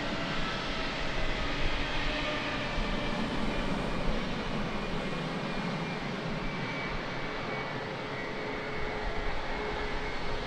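Jet airliner engines running, a steady rushing noise with faint engine tones that eases slightly in the second half, as of a jet departing.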